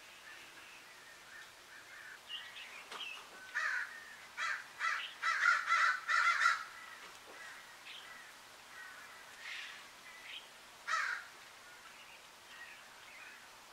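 Harsh, caw-like bird calls: a quick run of about seven caws in the middle, then a single one later, with faint bird chirping underneath.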